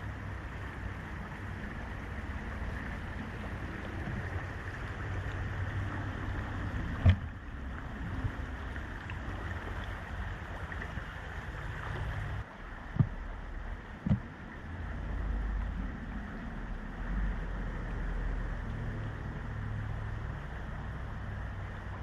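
Fast-flowing river water rushing steadily, with a low rumble that rises and falls. There are sharp knocks about seven, thirteen and fourteen seconds in, and the sound changes abruptly about twelve seconds in.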